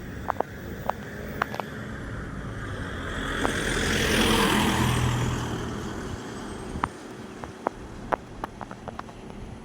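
A vehicle passing by: a rushing noise swells to a peak about halfway through and then fades, with a faint whine that drops in pitch as it goes past. Sharp ticks are scattered throughout.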